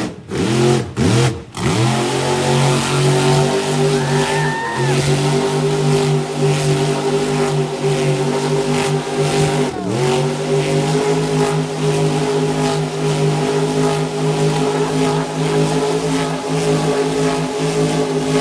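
Car engine doing a burnout: a few quick rev blips, then held at steady high revs with one brief dip about ten seconds in. The sound cuts off suddenly at the end.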